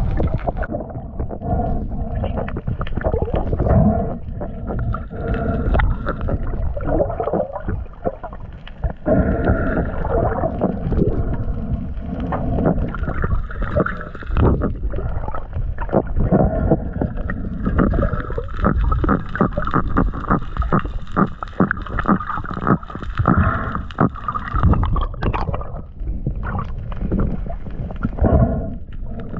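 Muffled underwater sound, gurgling and bubbling water with many small clicks and knocks over a continuous low rumble.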